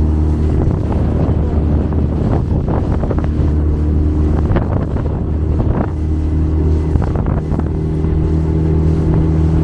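Motorboat engine running steadily under way, struggling to push the boat past about 7 knots with three people aboard. Rougher wind and water noise breaks in over the middle few seconds.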